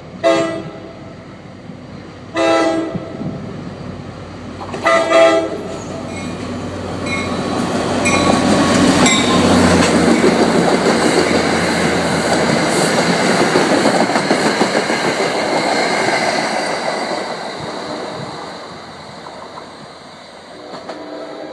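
NJ Transit commuter train sounding three short horn blasts as it approaches. It then passes close by at speed with a loud rush of wheel and rail noise that swells, peaks and fades away as it recedes.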